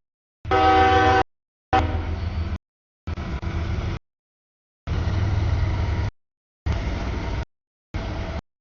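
Short clips of freight trains passing, cut hard one after another, each a low rumble that stops abruptly. Near the start, a locomotive air horn sounds briefly and is the loudest part, followed by a fainter horn fading out.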